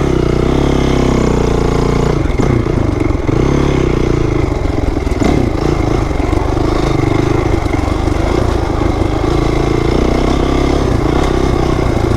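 2008 Honda CRF450R's single-cylinder four-stroke engine running under throttle on a dirt trail. The revs hold high at first, drop off about two seconds in, waver up and down, and climb again near the end.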